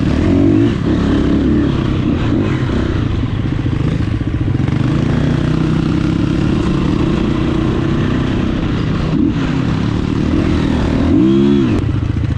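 Dirt bike engine running while ridden, its pitch rising and falling as the throttle is worked, with a sharp rev-up and drop about eleven seconds in.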